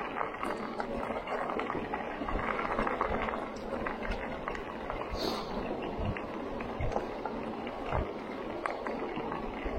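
Electric bike rolling over a rough gravel trail: tyres crunching steadily on loose stone, with scattered clicks and a few low knocks as the bike jolts over bumps.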